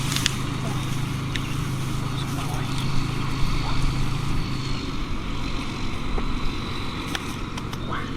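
A motor running steadily with a low hum that drops away about five seconds in, with a few scattered clicks.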